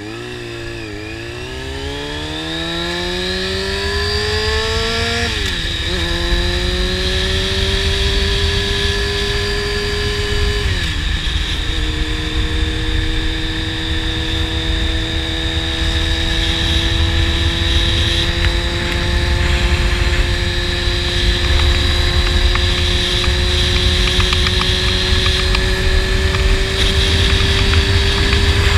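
Honda CBR 600 cc inline-four sport bike with a slip-on exhaust pulling through the gears: revs climb, drop sharply at an upshift about five seconds in and again about eleven seconds in, then hold a steady, slowly rising note at cruise. Wind rumble on the microphone underneath.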